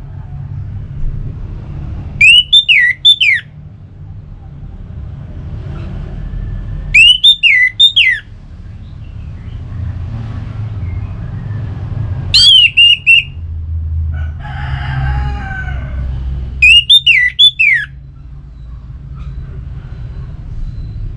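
Orange-headed thrush singing: four loud, short phrases of three or four sharply falling whistled notes, about five seconds apart. A fainter, lower call sounds between the third and fourth phrases, over a steady low rumble.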